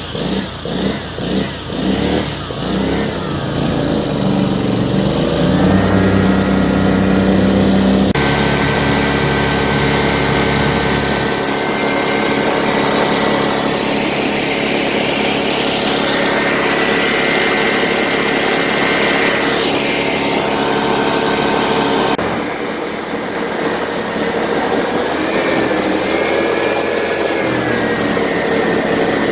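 Swamp buggy's Loncin engine running, its pitch rising and falling as the revs change, with an uneven pulsing in the first few seconds. The sound shifts abruptly twice.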